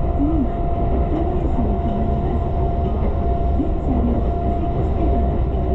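Tobu limited express Ryomo train running, heard from inside the carriage: a steady low rumble with a constant whine.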